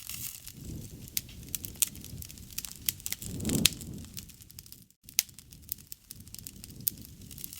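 Wood fire crackling, with many sharp pops over a low rush of flame that swells about three and a half seconds in. The sound drops out for a moment just before five seconds in.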